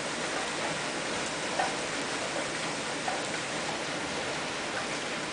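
Heavy rain falling steadily: a dense, even hiss of rain, with a few louder single drops splashing close by.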